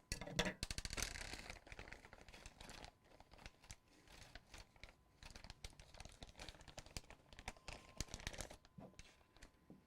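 Handling noise from working on a desktop PC: a dense run of small clicks and rustles, busiest in the first second and a half and again about eight seconds in.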